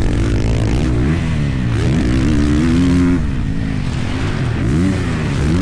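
Dirt bike engine revving as the throttle opens and closes. The pitch climbs about a second in, holds, drops sharply about three seconds in, then rises and falls again near the end.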